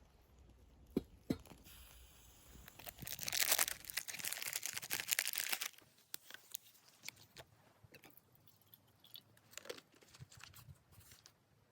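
Close crunching and crinkling handling sounds. A louder rustling, tearing stretch comes about three seconds in and lasts nearly three seconds, followed by scattered small clicks and crackles.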